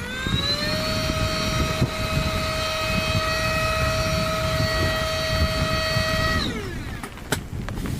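Small electric air pump running: its motor spins up with a rising whine, holds a steady pitch for about six seconds, then winds down and stops.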